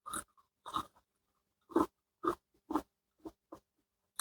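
Biting into and chewing a crispy-skinned fried chicken drumstick: a string of short, uneven crunches with gaps between them.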